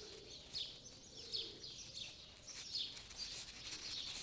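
Small birds chirping: a steady run of short, high, falling chirps.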